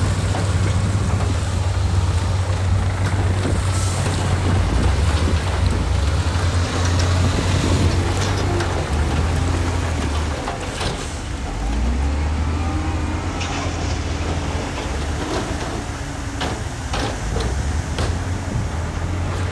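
Diesel engine of heavy earthmoving machinery running at work, a steady low rumble that shifts in pitch, with several sharp metallic clanks in the second half.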